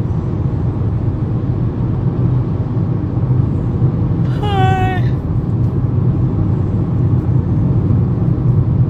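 Steady low road and engine rumble of a car heard from inside the cabin while driving. About four and a half seconds in, a brief high-pitched tone sounds for about half a second.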